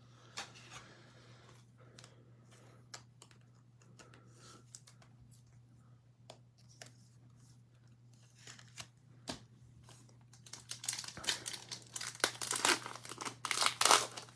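Faint clicks of trading cards being handled, then, from about ten seconds in, a loud crinkling and tearing of a trading-card pack's wrapper as it is ripped open.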